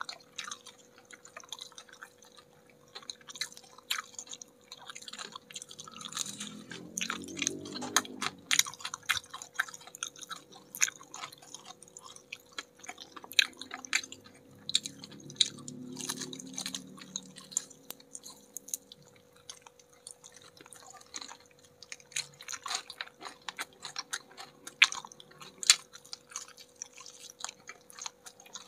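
Close-miked chewing and biting of batter-fried chicken wings, full of quick wet mouth clicks and small crunches, with a faint steady hum underneath.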